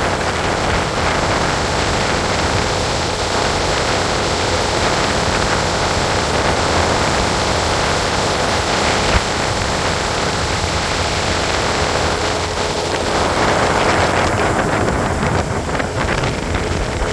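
Motorboat under way, its engine running beneath heavy wind noise on the microphone and rushing water. A faint steady hum comes in about halfway through.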